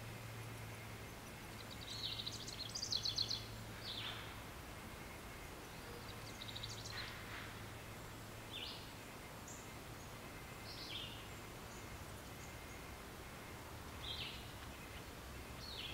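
Nature ambience of birds chirping, with a run of quick trilled calls about two to three seconds in and single short chirps scattered through the rest. A faint steady low hum and hiss lie underneath.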